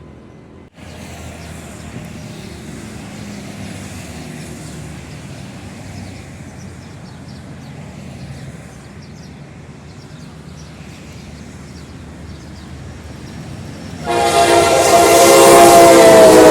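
Steady rumble of a train, then from about 14 seconds in a General Electric diesel locomotive sounds its loud multi-tone air horn, held steadily, with the pitch dipping slightly near the end.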